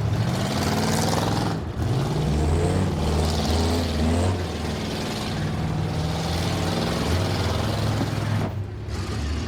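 Several demolition derby cars' engines running and revving at once, their pitch rising and falling unevenly.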